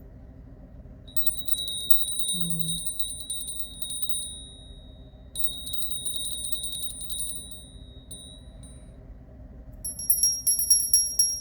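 Small hand bells shaken so they ring in rapid, continuous strikes with a steady high ring, in two long shakes. A different, higher-pitched bell then rings louder near the end.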